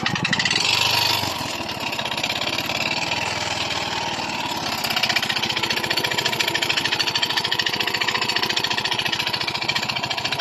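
Yamaha Mio i 125 scooter's single-cylinder engine running with a fast, metallic clanking rattle from inside, as if parts were knocking together: piston slap from a worn piston. It is a little louder for about the first second, then runs steadily.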